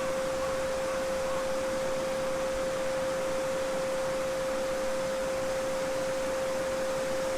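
A steady 528 Hz pure sine tone, the so-called solfeggio frequency, held without change over the even rushing of a babbling brook.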